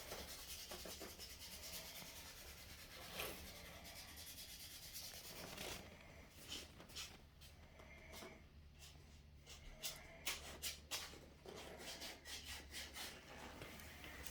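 Faint rubbing or scraping noise for about the first six seconds, then a scatter of light clicks and taps.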